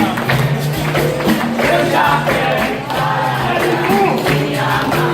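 Capoeira roda music: group singing over the rhythm of a pandeiro and the steady twang of berimbaus.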